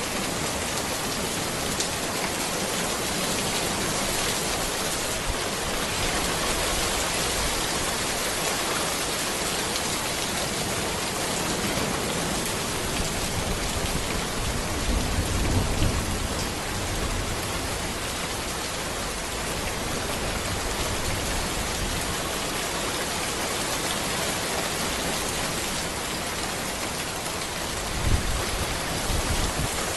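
Steady rain falling on a road, an even hiss of drops. There is a low rumble about halfway through and a brief low thump near the end.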